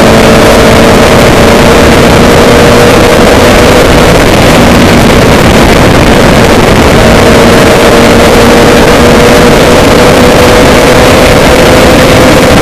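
Loud, steady engine-like drone with a few held humming tones that fade and return.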